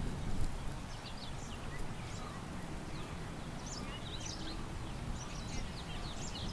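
Several small songbirds chirping and twittering in quick, high, short notes over a steady low rumble of wind.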